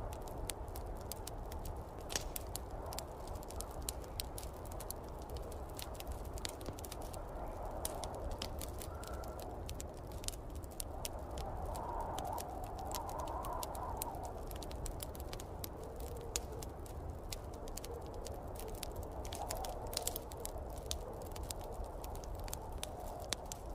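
Wood fire in a fireplace crackling, with frequent sharp pops and snaps over a steady low rumble. Snowstorm wind rises and falls in soft gusts behind it.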